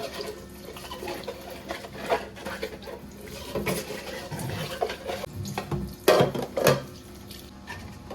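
Water running at a sink with irregular knocks and clinks of things being handled, two louder knocks about six and seven seconds in.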